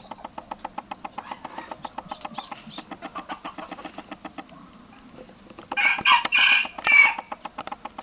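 A bird calling loudly three times in quick succession, about three quarters of the way in, over a fast steady run of soft clicks, about seven a second.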